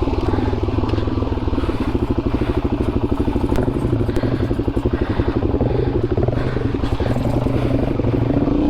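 Dual-sport motorcycle engine running at low revs along a dirt trail, with a pulsing, uneven beat as the throttle comes on and off.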